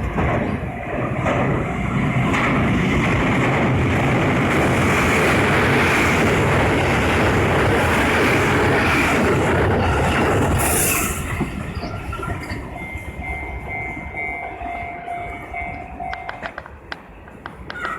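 A train running over a railway level crossing, loud for about the first eleven seconds and then fading away. As it fades, the crossing's warning bell is heard ringing in a steady two-tone pattern and stops about a second and a half before the end. A few sharp clicks follow.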